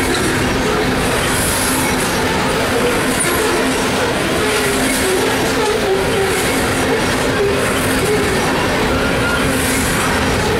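Aluminum rotary-dump coal gondolas of a BNSF coal train rolling past: a steady, loud noise of steel wheels on rail, with a faint wavering squeal.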